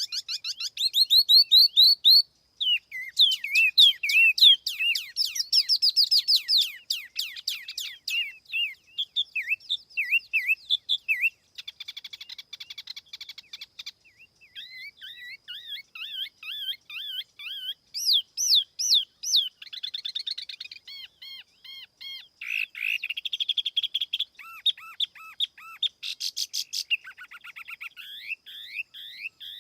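A tiểu mi songbird singing, a lure-call recording: long runs of fast, high whistled notes that sweep up and down in rapid series, in phrases separated by brief pauses.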